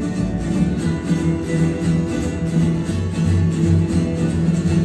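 Folk band playing an instrumental break with no vocals: strummed acoustic guitars keep a steady rhythm over low bass notes.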